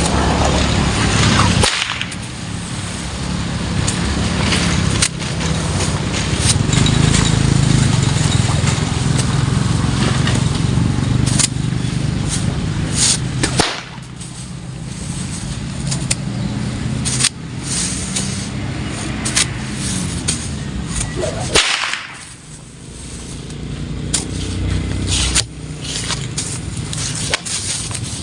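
A whip cracking repeatedly: sharp single cracks a few seconds apart over a steady low rumble.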